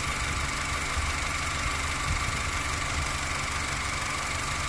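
A 2012 Honda Civic's four-cylinder engine idling steadily with its headlights on, the alternator charging at about 14.2 volts. A steady high tone sits over the idle.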